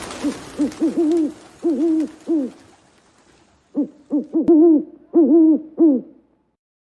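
A bird's low hooting calls in two phrases of repeated hoots, each note rising and falling in pitch, with a short pause between the phrases.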